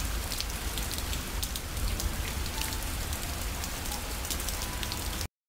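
Steady rain: an even hiss with scattered drop ticks and a low rumble underneath, cutting off suddenly near the end.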